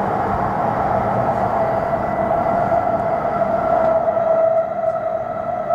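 Hokuriku Shinkansen train heard from inside the passenger cabin while running at speed: a steady rumble of travel with a constant whine over it. About four seconds in the rumble eases and the whine stands out more clearly.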